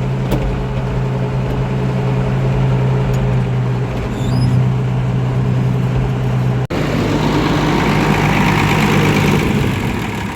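Loader tractor's diesel engine running steadily. About two-thirds through the sound breaks off sharply for an instant, then the engine carries on with more clatter before dying down near the end as the tractor is shut off.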